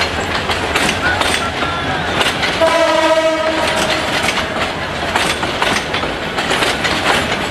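Two passenger trains running past each other at close range, their wheels clacking over the rail joints with a steady rumble. About two and a half seconds in, a train horn sounds for about a second.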